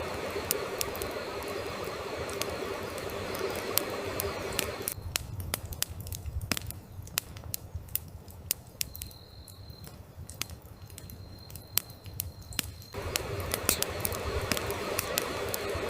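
Wood fire crackling with frequent sharp pops and snaps, over a steady high insect drone from crickets. The steady background hiss drops away for several seconds in the middle while the crackling goes on.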